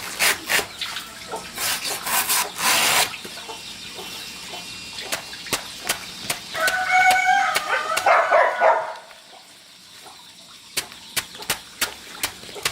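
A chicken's drawn-out call of about two seconds, partway through, after a few seconds of noisy rustling bursts, with scattered sharp clicks later on.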